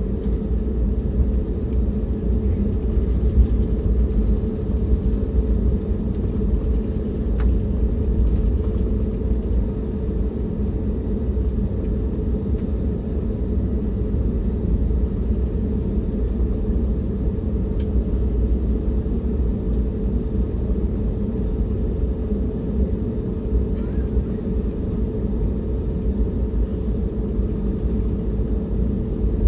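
Steady low rumble of an Airbus A321neo's engines and airframe heard inside the passenger cabin, with a steady hum running under it.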